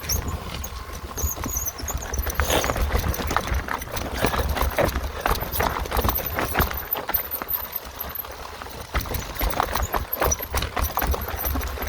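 Mountain bike rattling over a rough, rocky singletrack: a dense, irregular run of clacks and knocks from the bike bouncing, with wind rumbling on the microphone.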